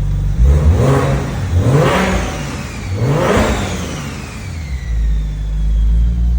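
BMW N54 inline-six, converted to a single turbo, blipped three times from idle in quick light revs, each rising and falling within about a second, before settling back to a steady idle. A faint high whistle falls in pitch as the revs drop.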